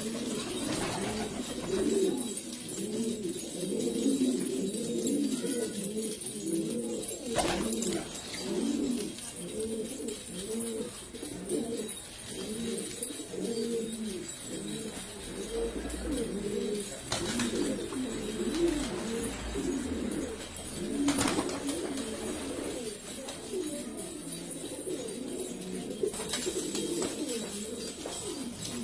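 Domestic pigeons cooing, several birds at once, their low rolling coos overlapping continuously. A few brief sharp clicks or knocks are heard now and then.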